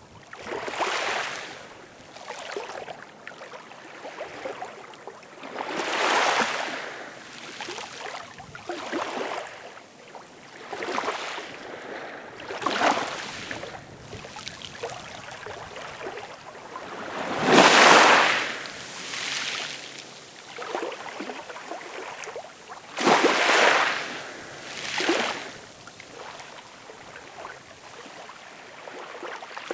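Ocean waves breaking and washing in, in irregular hissing surges a few seconds apart, the largest about eighteen seconds in.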